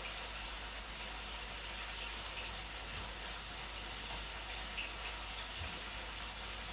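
Steady sizzling hiss of food frying in a pan, with faint scattered pops.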